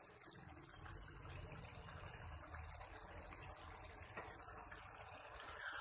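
Liver curry (kaleji salan) bubbling faintly and steadily in the pot in the water the liver has released, the stove just turned up to start frying it down.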